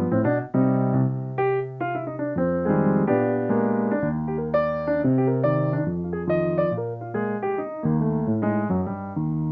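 Solo piano playing, melody notes over chords with a low bass line, new notes struck several times a second.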